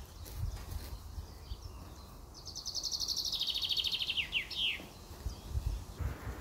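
A songbird sings one fast trill of high, rapidly repeated notes that falls in pitch and ends in a few quick downward flicks, starting about two and a half seconds in and lasting about two seconds, over a low outdoor rumble.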